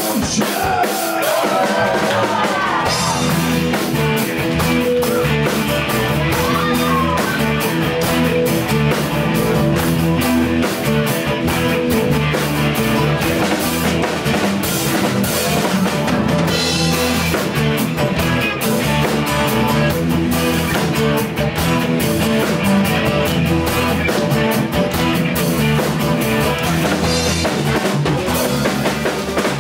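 Live rock band of drum kit, bass guitar, guitar and keyboards playing an instrumental passage with a steady beat, ahead of the vocal entry.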